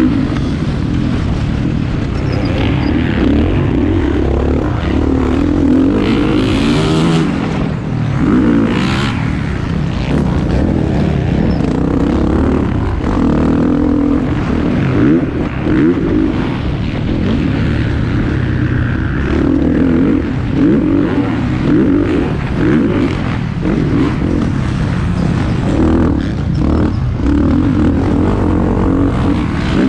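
Motocross bikes racing, their engines revving up and down as they pass and accelerate, with no break.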